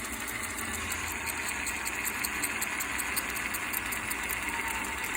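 Axial SCX10 RC crawler's drivetrain running, with a fast, regular ticking over a steady whir and a thin whine coming in near the end. These are the odd noises and rattling that the owner traced to loose screws and a squeak needing lubrication.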